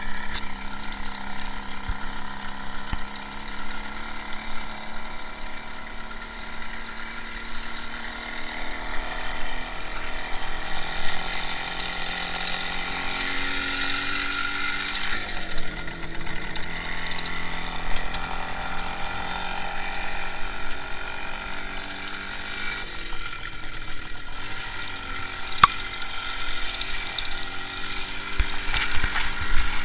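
IZH Jupiter-5 motorcycle's two-stroke twin-cylinder engine running under way, its pitch rising and falling with the throttle. The engine note drops sharply about halfway through, then climbs again.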